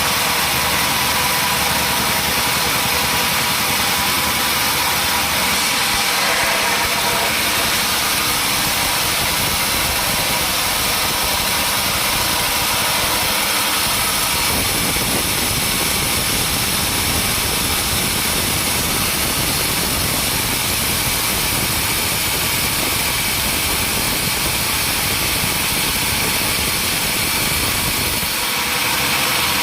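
Sawmill machinery running steadily: a continuous engine-like drone with a strong hiss. Its low end grows fuller about halfway through.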